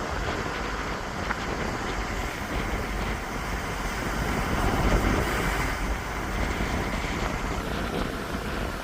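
Wind blowing over the microphone: a steady rushing with an uneven low rumble, swelling slightly about five seconds in.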